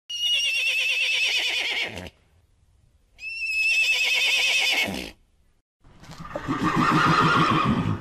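Horse whinnying twice, each call about two seconds long with a high quavering pitch, then a lower, rougher call near the end.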